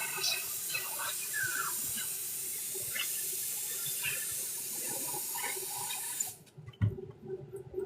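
Water running from a tap into a sink, a steady hiss that cuts off suddenly about six seconds in, followed by a single knock.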